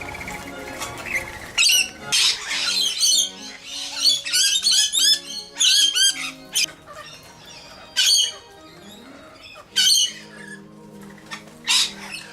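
A bird squawking in loud, harsh calls, first in quick clusters, then as single calls about every two seconds. Background music plays under it.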